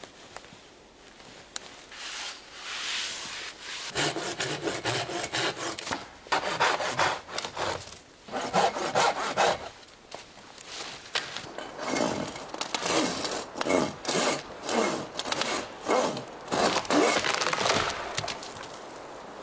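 Saw cutting through wood in rhythmic back-and-forth strokes, about two a second, in several bouts starting a few seconds in.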